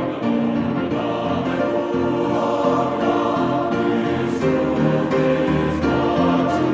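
Choir singing slow held chords over an instrumental accompaniment.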